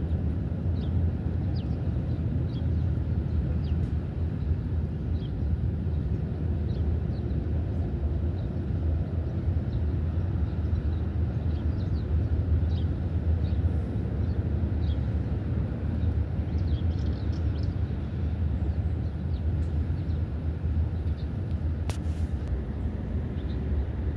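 Outdoor ambience: a steady low rumble with many short, faint high chirps scattered throughout.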